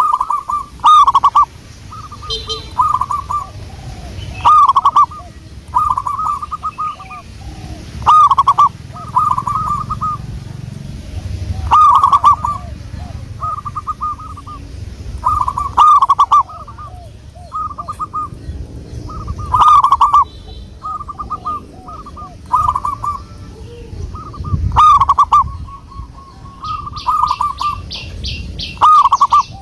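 Zebra dove (perkutut) cooing: phrases of quick, rolling coo notes repeated every few seconds, each opening with a louder note. Near the end, another bird gives a fast, high ticking trill.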